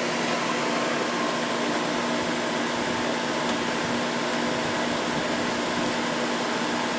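Idylis 12,000 BTU portable air conditioner running in cool mode, its compressor and condenser fan giving a steady whooshing noise with a constant hum beneath. The exhaust hose is not fitted, which changes how the unit sounds.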